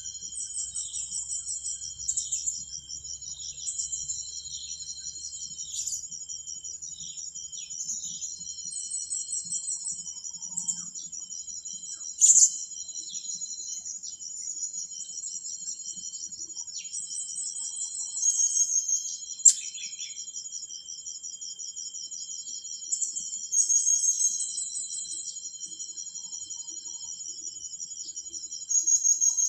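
Insects trilling steadily, a high-pitched, finely pulsed drone, with short sharp high chirps breaking in every few seconds and a couple of brief louder clicks.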